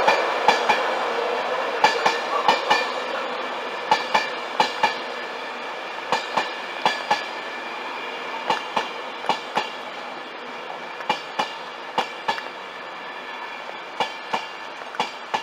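A train rolling past, its wheels clacking over rail joints in quick groups of two or three every second or so over a steady rumble and faint whine that slowly fades as it draws away.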